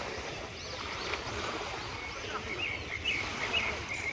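Beach ambience: a steady rush of wind and surf, with faint distant voices and many short high chirps.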